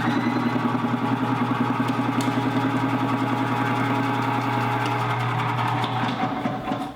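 Electric radish-slicing machine running: a steady motor hum with a fast, even pulsing, which cuts off abruptly near the end.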